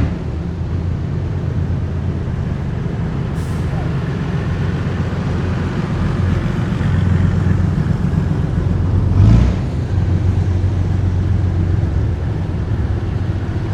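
Heavy military vehicles' diesel engines running steadily as a column drives past, a deep low drone. A brief, sudden, louder burst about nine seconds in, like a hiss or bang from one of the vehicles.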